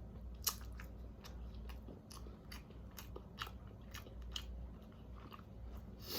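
A person chewing a mouthful of chicken and rice close to the microphone: a run of small, irregular mouth clicks and smacks, the sharpest about half a second in.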